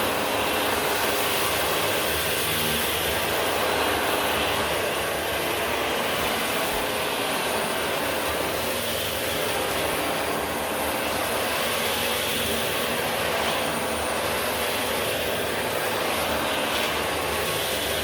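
Vacuum cleaner running steadily: a constant rushing whoosh of motor and airflow, with a faint high whine on top.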